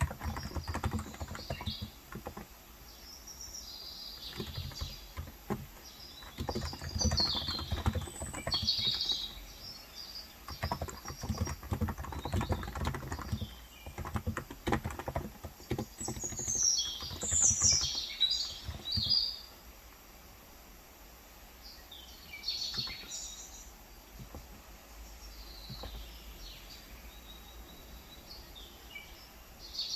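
Typing on a Cox Endeavor electrostatic-capacitive tenkeyless keyboard with 35 g keys, in runs of soft keystrokes broken by short pauses. Birds chirp in bursts in the background, most busily just past the middle.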